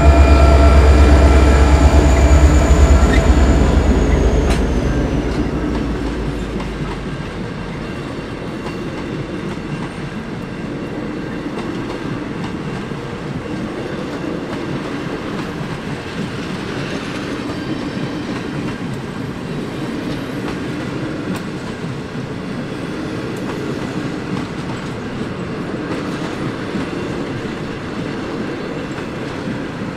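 Diesel locomotives of a passenger train passing close by, their engines loud for the first few seconds and then fading. The carriages then roll steadily past on the rails.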